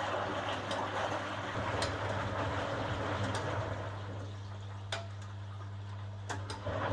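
A 1980 HUWA Automatic Standard 4 washing machine running a wash: water swishes in the drum over a steady low hum, with a few sharp clicks. The noise grows louder near the end.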